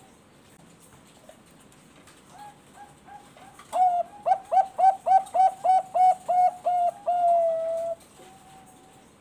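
Zebra dove (Thai-bred perkutut bangkok) singing one full song phrase: a few soft introductory notes, then a quick run of about ten loud staccato coos, ending in one long held coo.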